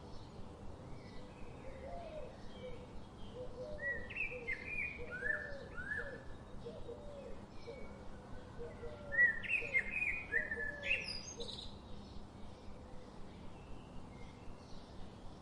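Several songbirds chirping, with a louder cluster of chirps about nine to eleven seconds in. Under them is a lower call repeated in an even series, over a faint steady background hiss.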